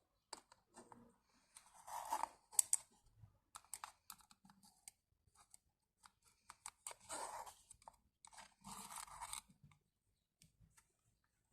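Hands working the oil filter housing cap and its new rubber seal: scattered clicks and short rustles of small parts being handled.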